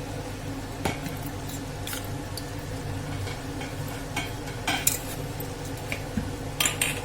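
Metal cooking utensils clinking and scraping against a cooking pot, several separate knocks with the loudest pair near the end, over a steady low hum.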